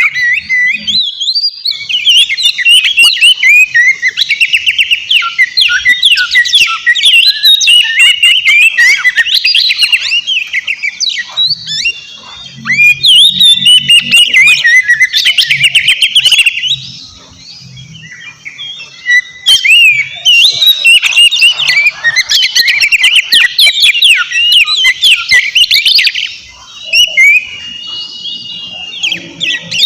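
Oriental magpie-robin (kacer) singing loudly and vigorously: a rapid, unbroken run of varied whistles, trills and chattering phrases, broken by short pauses a little past the middle and near the end.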